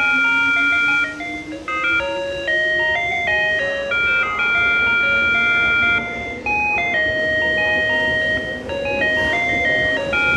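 Tobu Railway signal-clearance tone at Ota Station: a PATLITE electronic annunciator playing a short looping melody of clean, stepped electronic notes, telling the one-man train crew that the starting signal has cleared. A low whine rises steadily in pitch beneath it through the first half.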